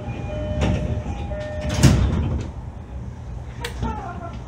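Inside a JR East E531 series commuter train car: a low rumble with several sharp knocks and clunks, the loudest about two seconds in. Faint steady tones sound in the first half, and a short falling tone comes near the end.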